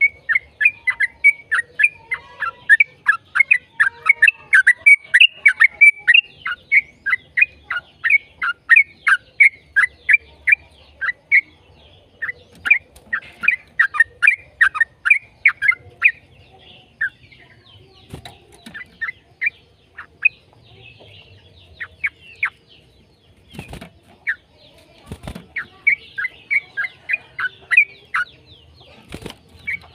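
Yellow-vented bulbul (trucukan) singing a long, rapid chattering run of short, falling whistled notes, about three to four a second. The run thins out into scattered notes after about sixteen seconds, then picks up again near the end, with a few low thumps in the later part.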